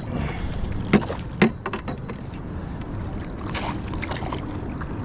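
Steady wind and water noise on a small boat, with a few sharp knocks and clatter about one to two seconds in.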